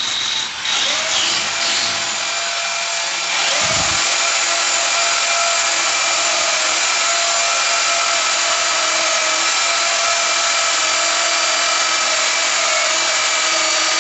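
Electric drill spinning up about half a second in, then starting again at about three and a half seconds and running steadily under load, drilling a fixing hole into ceramic wall tile.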